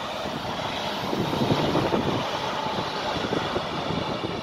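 Electric multiple unit passing through the station, its wheels rumbling and clattering on the rails; the noise swells about a second in and stays loud.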